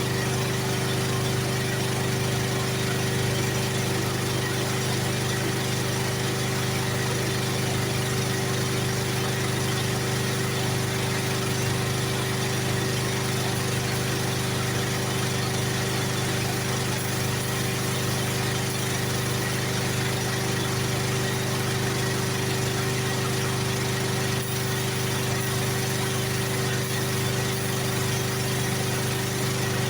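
Generator engine running steadily at constant speed, an even hum with no change in pitch.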